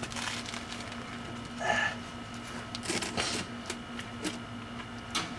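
Hand tools clinking and scraping against metal car parts in short, irregular bursts, over a steady low hum.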